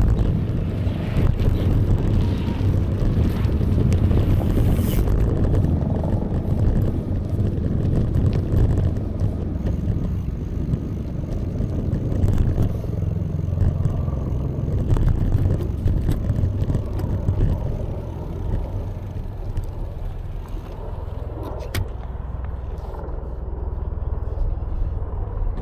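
Steady low rumble of riding a bicycle: wind and road noise on the camera's microphone, easing slightly past the middle.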